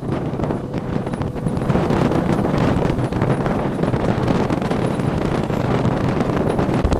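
A vehicle driving along a road: steady engine and road rumble with wind buffeting the microphone and frequent small clicks and rattles, getting a little louder after about a second and a half.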